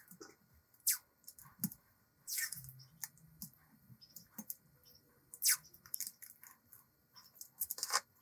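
Hand work on a metal vise: irregular sharp clicks, taps and short scrapes of metal parts being handled and worked, with pauses between them.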